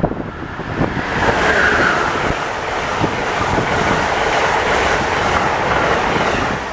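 Amtrak passenger train passing close at speed: a steady rush of wheels on rail that swells about a second in as the coaches come alongside.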